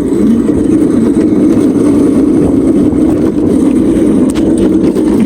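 Loud, steady drone of a small vehicle being ridden, its pitch wavering slightly, with noise across the whole range.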